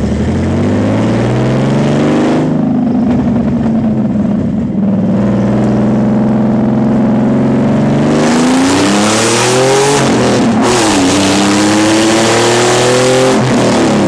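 Nissan 300ZX (Z32) naturally aspirated V6 running with no exhaust system while driving. The revs climb, settle to a steady cruise, then rise loudly under hard throttle. There is one quick drop in pitch like an upshift, a second climb, and the revs fall off near the end.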